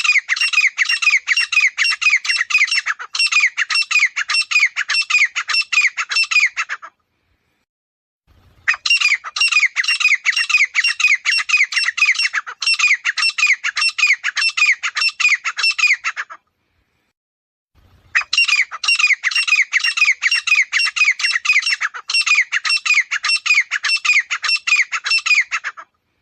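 Grey francolin calling: three loud bouts of fast, repeated harsh notes, about four a second, each note falling in pitch. Each bout lasts around seven seconds, with short silences between them.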